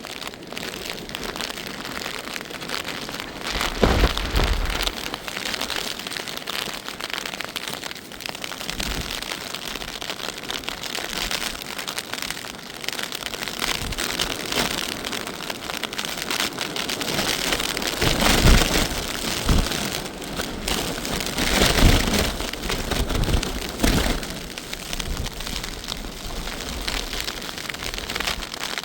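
Heavy rain falling steadily, with a few louder surges that reach down low, about four seconds in and twice more in the second half.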